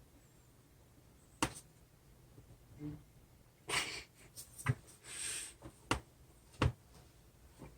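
Handling noise from drawing materials: three sharp knocks, with a couple of short rustles in between.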